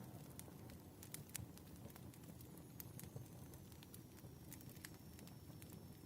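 Quiet wood fire crackling: scattered sharp pops and snaps over a low, steady rumble.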